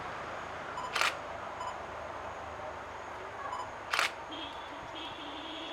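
Single-lens reflex camera shutter firing twice, two short sharp clicks about three seconds apart, over a steady background hiss.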